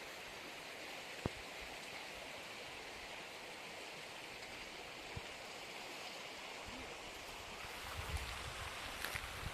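Steady rushing of a flowing stream, with a sharp click about a second in and a low rumble coming in near the end.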